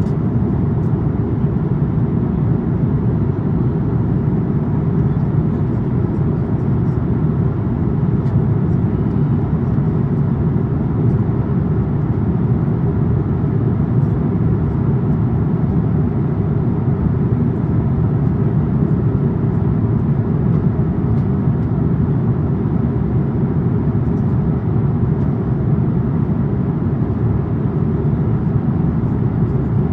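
Steady in-flight cabin noise of an Airbus A350-900 with Rolls-Royce Trent XWB engines, heard from a window seat: an even, low rush of engine and airflow noise that does not change.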